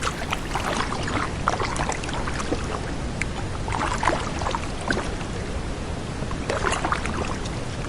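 Steady rush of fast-flowing river water around a rowboat, with scattered splashes.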